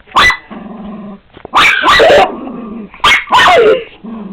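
A dog barking three times, about a second and a half apart, with a low growl between the first two barks.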